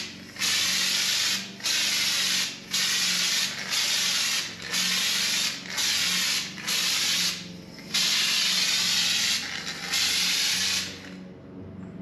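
Air-powered bed liner spray gun, fed at about 50 psi, spraying Raptor liner in about ten short hissing bursts as the trigger is pulled and released, the longest burst near the end.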